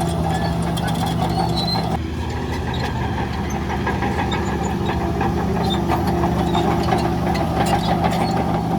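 Heavy diesel engine of earthmoving machinery running steadily, with light clinks and rattles over it. The engine's tone changes abruptly about two seconds in.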